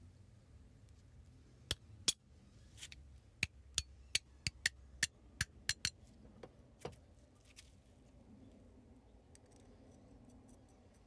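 Small metal parts clicking and tapping against each other, about a dozen sharp, uneven clicks over some five seconds, then only a low steady hum.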